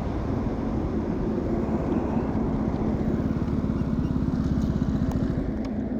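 KTM Duke 200 BS6's single-cylinder engine running on the road, with an even beat that grows clearer in the second half.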